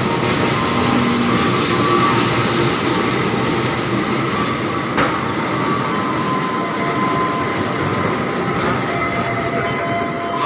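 Train running on the rails: a steady loud rumble of wheels and cars, with faint thin squealing tones from the wheels and a few brief clicks.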